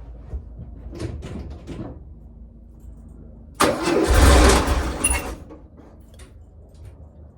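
1967 VW splitscreen bus's air-cooled flat-four engine turned over on the starter in a loud burst of about a second and a half, a few seconds in, then falling quiet without staying running. This is the first start attempt after two weeks standing, on a new distributor cap, HT leads and spark plugs. Faint clicks come before it.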